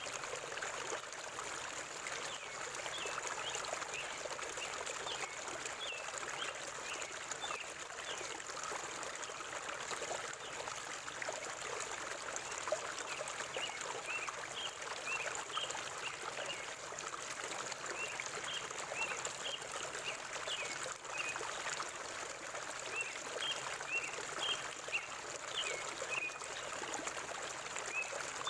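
A forest river flowing steadily over stones, a constant rushing trickle. Over it a bird gives runs of short, high chirps, first in the opening seconds and again from about two-thirds of the way through.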